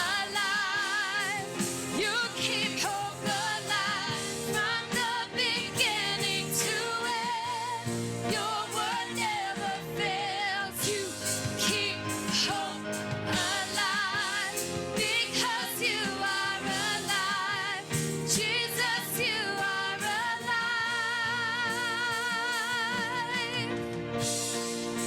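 Live worship music: a band playing while a singer holds long notes with a strong vibrato.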